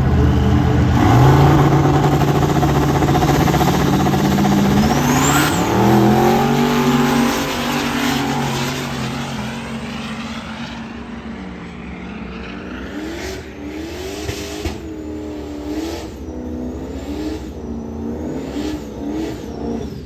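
Turbocharged drag-race engines launching and accelerating hard down the strip, their pitch climbing steadily with a sharp rising turbo whine, then fading. In the second half an engine's pitch swings up and down over and over, with faint turbo whistles.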